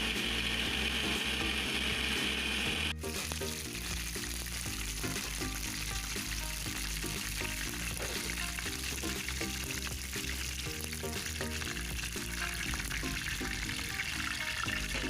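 Hot oil sizzling as chicken fries, with background music; the loud sizzle cuts off abruptly about three seconds in, leaving the music over a fainter steady hiss.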